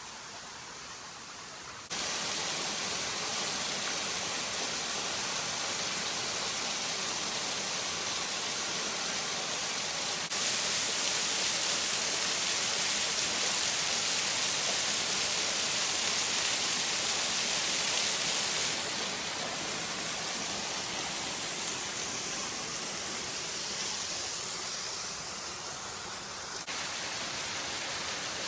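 Little Moore Cove Falls, a small waterfall, pouring with a steady rush of water. The rush steps up in loudness about two seconds in and again around ten seconds, eases off later, and jumps back up near the end.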